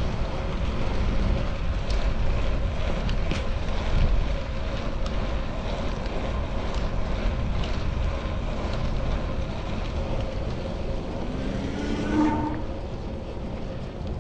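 Wind rumbling over a chest-mounted action camera during a bike ride, with passing city traffic and a few light clicks. A short rising pitched sound comes about twelve seconds in.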